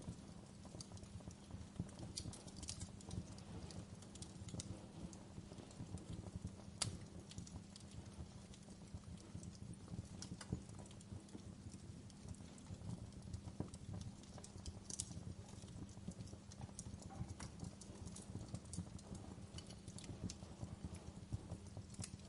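Wood fire crackling: many small irregular pops and snaps over the low, steady sound of the burning, with a couple of louder snaps, one about seven seconds in and another near fifteen seconds.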